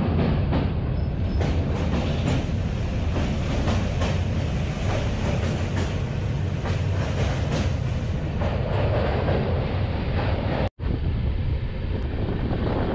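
Passenger express train running at speed, heard from an open coach door: a steady heavy rumble of wheels on rail with repeated sharp clicks over rail joints while crossing a steel girder bridge. The sound cuts out for an instant about eleven seconds in, then the same running noise resumes.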